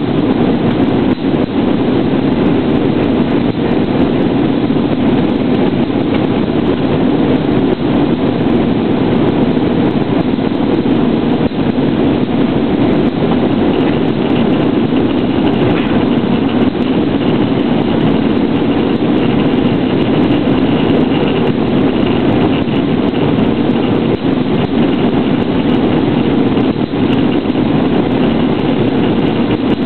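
Steady roar of jet engines and rushing air inside an Airbus A320's passenger cabin on approach, with a faint high whine joining about halfway through.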